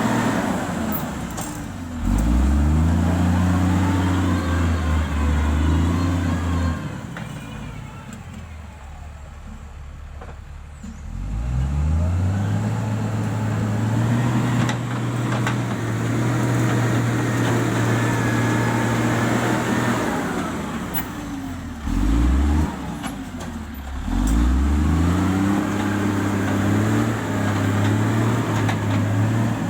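Heavy-equipment diesel engine revving up and settling back several times: the pitch climbs quickly about two seconds in, again around eleven seconds, and twice in quick succession past twenty seconds, holding steady at high revs between, with a quieter low-revving stretch in the first half.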